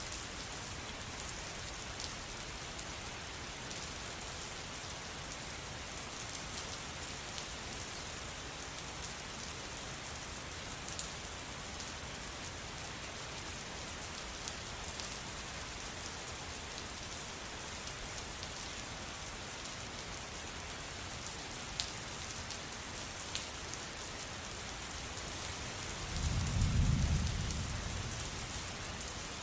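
Steady rain falling, with scattered sharp drop ticks. Near the end a low rumble of thunder swells up and fades away.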